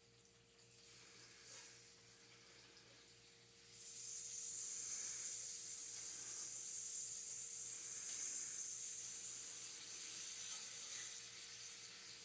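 Ceiling fan running at speed: a low motor hum that pulses about three times a second with the turning blades, under a steady faint tone. A hiss joins about four seconds in and eases off near the end.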